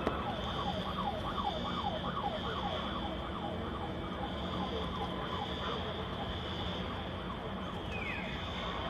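An electronic siren or alarm sounds in quick repeated falling sweeps, about two to three a second, then fades out around the middle. Underneath run a steady high-pitched tone and constant background noise.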